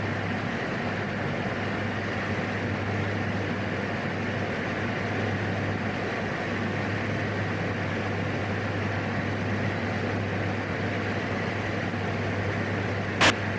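Steady drone of a PAC 750XL's single turboprop engine and airframe noise in cruise, with a steady low hum under a wide hiss. A single sharp click comes near the end.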